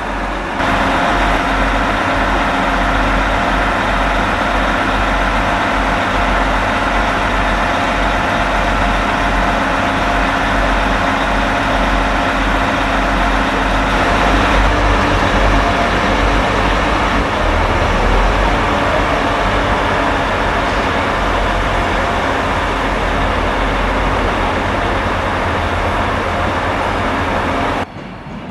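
A large diesel vehicle engine running steadily, a low rumble with a steady whine over it. It cuts off abruptly near the end.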